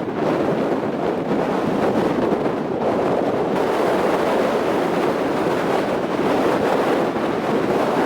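Strong mountain wind blowing and buffeting the microphone, a steady loud rush with no letup.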